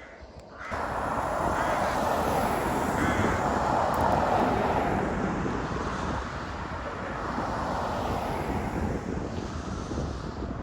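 Vintage tractors running past on a road, a steady engine noise that starts abruptly under a second in and swells for a few seconds before easing slightly, with wind buffeting the microphone.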